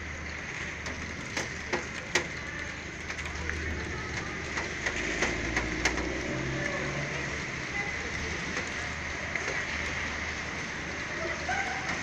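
Rain falling steadily, with scattered sharp drips tapping on a nearby surface.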